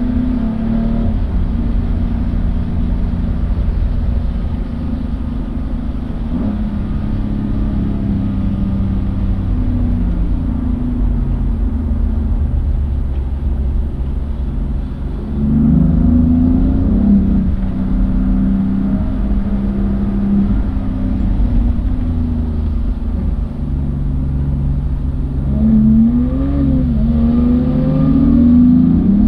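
Car engine heard on board during a lap, running with its pitch rising and falling as the throttle is worked, over a constant low drone. It climbs sharply about fifteen seconds in, and again near the end.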